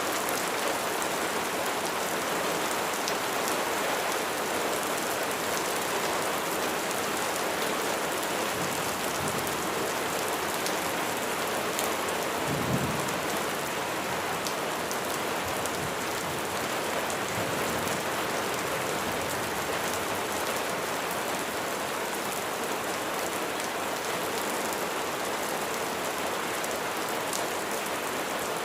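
Steady rain falling, an even hiss of many drops; a brief low thump about halfway through.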